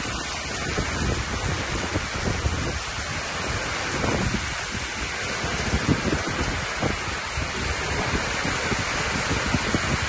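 Heavy storm rain pouring down as a steady, dense hiss, with irregular low rumbling surges of wind gusting on the microphone.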